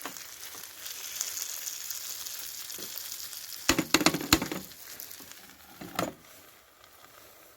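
Chicken tikka masala paste sizzling as it fries in a pan, with a quick cluster of sharp knocks against the pan about four seconds in and one more near six seconds; the sizzle then fades.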